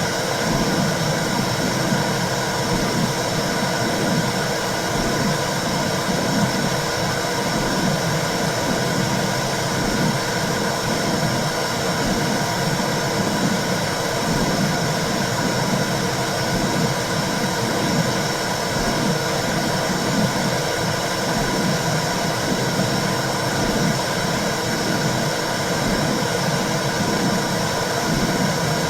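Womb sound for soothing babies: a steady whooshing noise with a low, rhythmic pulsing underneath, like the mother's heartbeat and blood flow heard from inside the uterus.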